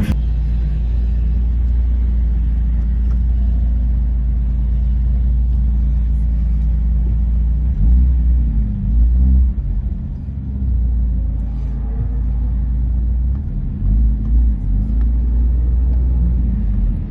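A car engine idling steadily, with two short blips of revs about halfway through and a few seconds later.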